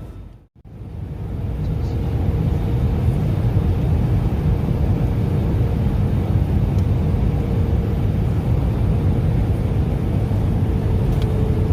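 Airbus A319's cabin noise: a steady low rumble of its CFM56 engines and airflow, with a faint steady hum above it. The sound dips out for a moment about half a second in and fades back up.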